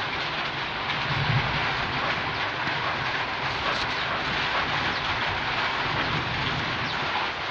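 Heavy rain falling in a steady hiss, with a short low rumble about a second in.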